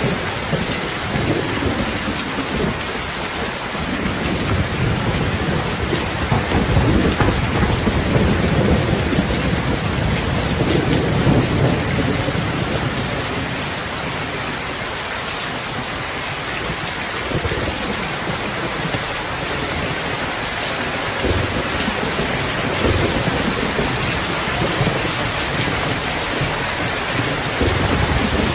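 Heavy rain falling steadily in a dense hiss, with a low rolling rumble of thunder that swells through the first half and fades. A few short low thumps come later on.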